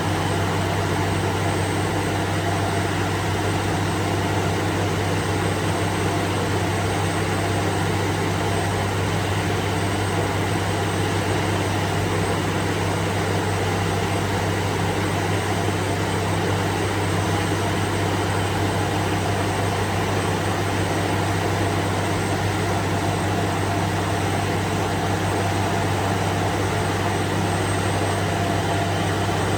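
Truck engine running at a steady speed with an even, unchanging low hum.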